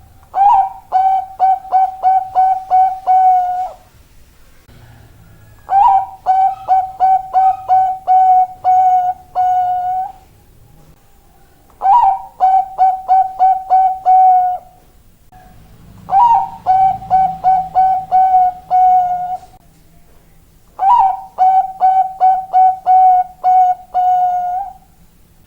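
Bangkok-strain zebra dove (perkutut) cooing: five phrases of quick, staccato coos, about four seconds each and repeating every five seconds or so, each phrase ending in a longer held note.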